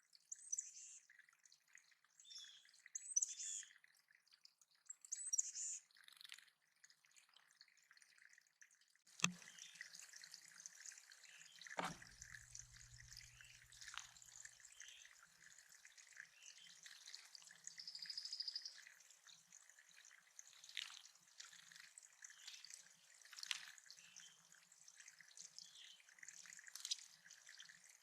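Faint water dripping and trickling into a backyard bird pond, with songbirds singing in the background.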